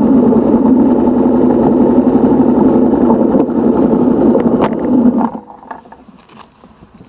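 A vehicle running on the road, its engine noise mixed with a steady rush, which cuts off abruptly about five seconds in.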